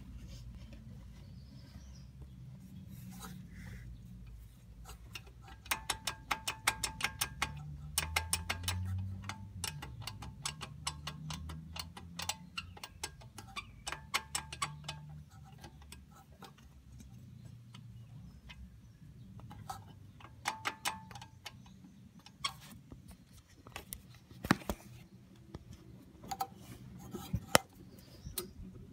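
VW Golf Mk7 1.4 TSI engine running with bursts of rapid metallic rattling from the turbocharger's wastegate. The rattle comes and goes in clusters of sharp clicks over a low, steady engine drone. It is the sign of a loose, worn wastegate flap and linkage, a known fault on this engine.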